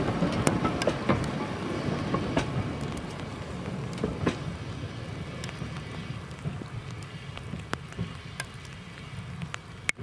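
Steam-hauled train of coaches rolling away along the track, the rumble of its wheels on the rails fading steadily as it moves off. Scattered sharp clicks run through it.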